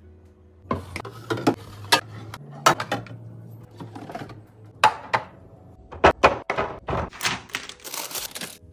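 Items and containers being set down and moved about while a fridge is restocked: irregular knocks, clacks and light clatters of hard plastic and glass. There is a short burst of hiss about eight seconds in.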